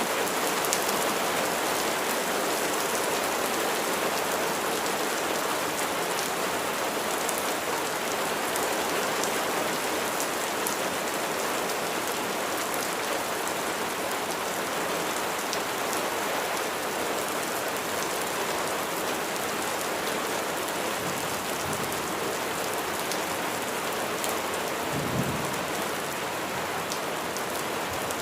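Steady heavy rain falling on a surface, an even patter of drops throughout. A brief low rumble sounds near the end.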